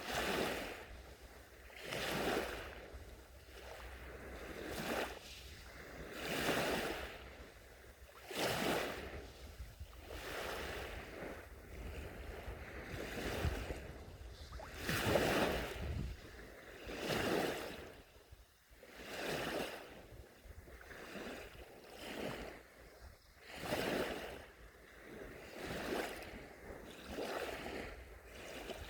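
Small sea waves breaking and washing up a beach, one soft swell of surf every two seconds or so, over a steady low rumble.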